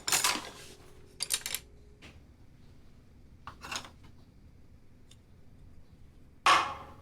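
Tableware clattering as dishes and bowls are set down and handled, in four short bursts, the loudest near the end.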